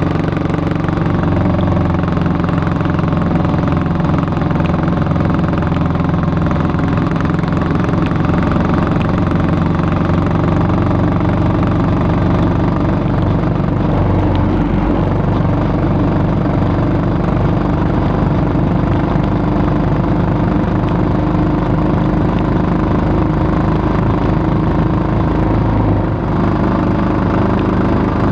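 Yamaha SR400's air-cooled single-cylinder four-stroke engine running at a steady idle through its exhaust.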